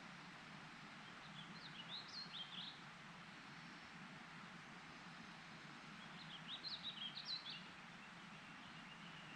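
A songbird sings two short, rapid, twittering phrases, one about a second and a half in and one around six to seven seconds in, over a steady background hiss.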